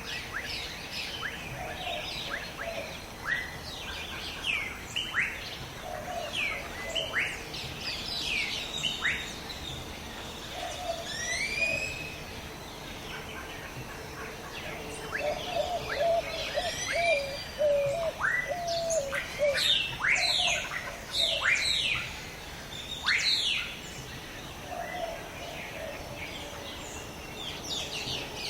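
Several birds chirping and calling together, many short falling chirps overlapping, with a lower warbled phrase that comes back every few seconds and is busiest about halfway through.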